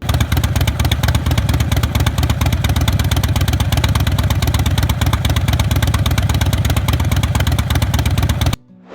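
Motorcycle engine running loudly with a fast, steady exhaust pulse, cutting off suddenly near the end.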